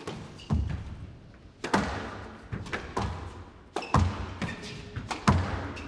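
Squash rally: the ball cracked by rackets and smacking off the court walls, a sharp hit about every second or so, each one echoing in the hall.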